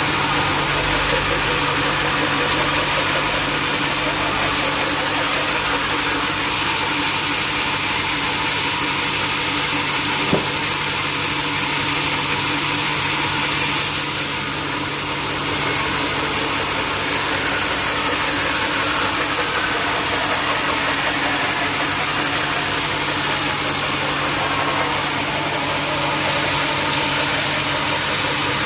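Sawmill machinery running steadily: a constant motor hum under a dense high hiss, with one short click about ten seconds in.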